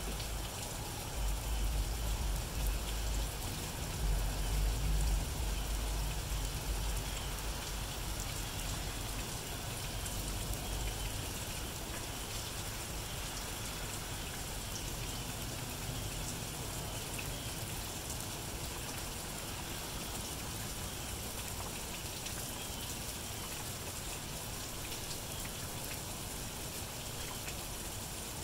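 Steady rain falling, an even hiss of drops on the ground and the wet road, with a low rumble during roughly the first ten seconds.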